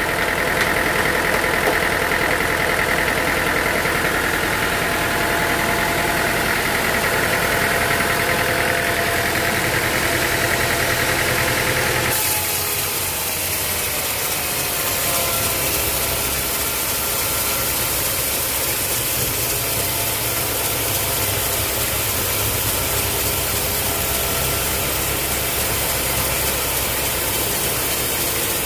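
Sawmill machinery running steadily, an engine-driven mechanical drone. About twelve seconds in the sound changes abruptly to a hissier mix.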